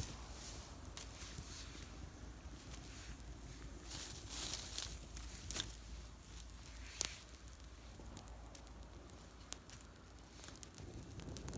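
Small wood campfire crackling faintly, with scattered sharp pops, the loudest about seven seconds in, and a brief rustle of twigs around four seconds in.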